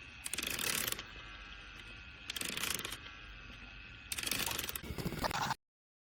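Small battery toy train motor running with a steady whine, broken three times by loud clattering bursts of under a second to about a second and a half each. The sound cuts off suddenly about five and a half seconds in.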